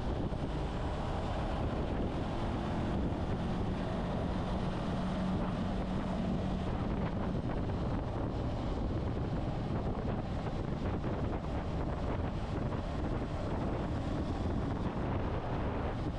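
Wind rushing over the microphone of a moving motorcycle, with the engine's steady hum underneath that comes through a little more clearly a few seconds in.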